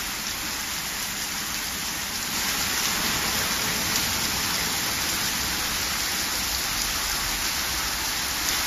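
Heavy rain pouring steadily onto flooded asphalt, a little louder from about two seconds in.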